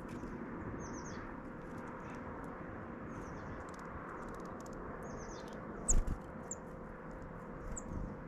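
Small wild birds chirping with short, high calls and quick downslurred notes, over a steady background hiss. A single thump about six seconds in.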